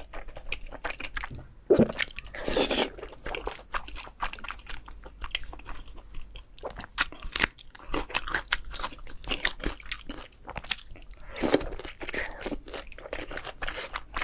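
A person biting and chewing meat close to the microphone, with irregular crunching and chewing noises and two longer noisy stretches partway through.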